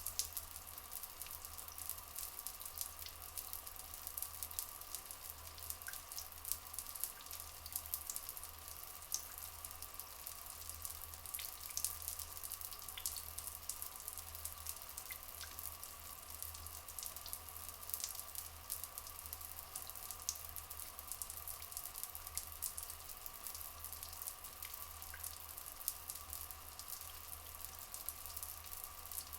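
Rainforest ambience of trickling, dripping water: a dense, even patter of small splashes over a steady faint background.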